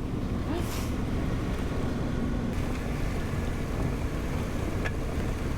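Motorcycle under way at road speed: a steady engine hum mixed with wind and road rush.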